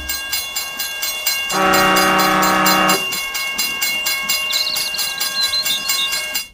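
Train running over rails with a fast, even clickety-clack of wheels on rail joints. About a second and a half in, the horn sounds one steady blast lasting about a second and a half.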